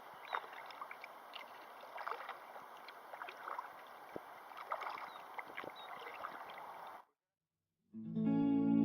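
River water flowing and splashing steadily, with many small splashes and trickles. It cuts off suddenly about seven seconds in, and about a second later guitar music begins.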